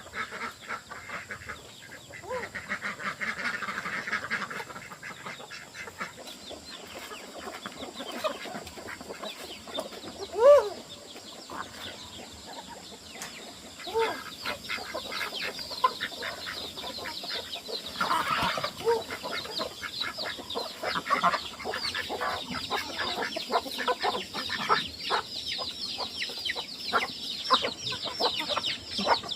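Domestic chickens clucking, with single louder calls now and then, the loudest about a third of the way in; from about halfway a dense stream of rapid high-pitched chirping runs under them.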